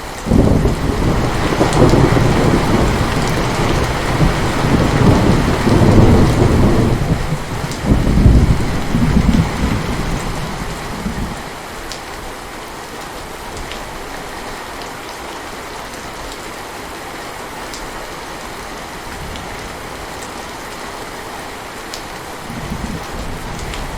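Heavy rain falling steadily, with a long roll of thunder that breaks out suddenly just after the start, peaks twice, and fades out about eleven seconds in, leaving the rain alone.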